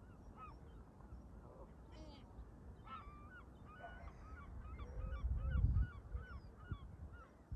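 Canada geese honking repeatedly in a rapid string of short calls, over a low rumble of wind on the microphone that swells to the loudest point a little past halfway.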